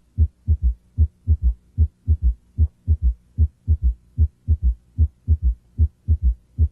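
Heart sounds heard through a stethoscope bell held lightly at the cardiac apex: S1 and S2 followed in each beat by a soft, low third heart sound (S3), giving a galloping rhythm of short, dull thumps.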